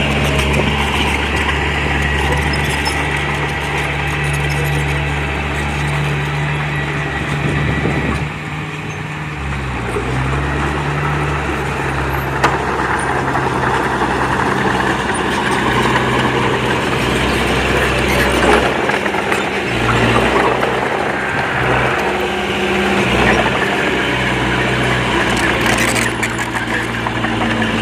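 Diesel engine of a small Komatsu D20P crawler bulldozer running steadily under work, its engine note shifting with the load a few times, over a continuous noisy clatter of machinery.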